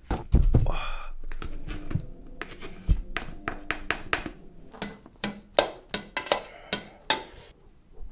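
Eating utensils clicking and knocking against a pot as ramen noodles are handled: a run of sharp clicks spread through, with a few duller thumps in the first second.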